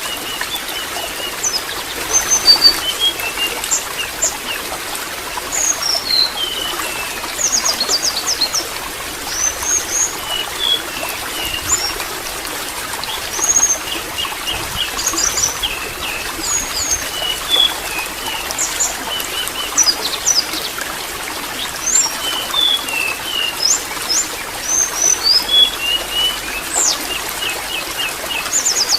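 Water trickling steadily, with small birds chirping and twittering in short, quick calls throughout.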